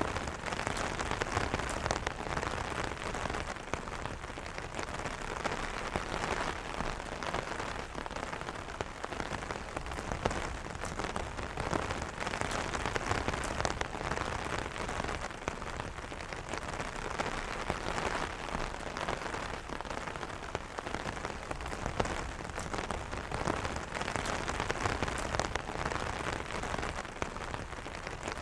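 Steady rain pattering on an umbrella canopy, a dense stream of fine drop taps over a constant hiss.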